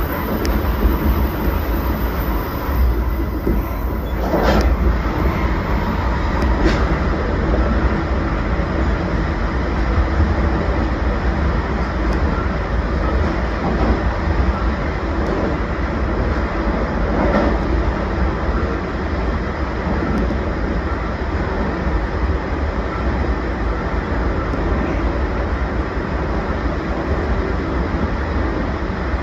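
Limited express electric train running at speed: a steady rumble of wheels on rail, with a few brief sharper clatters, one about four seconds in and another past the middle.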